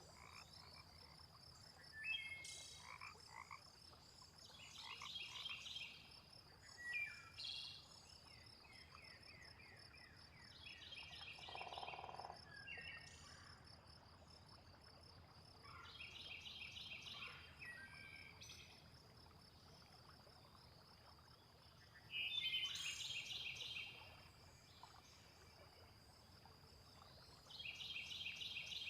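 Frogs croaking in short trains of rapid calls that come about every five or six seconds, over a steady high-pitched insect trill.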